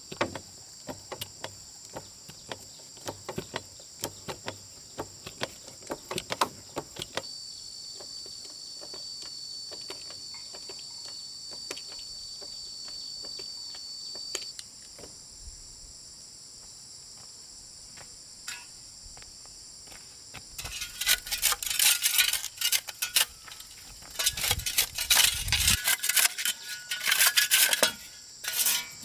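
Steady chirring of insects, with scattered sharp clicks early on and a dense run of loud metallic clicking and clattering in the second half.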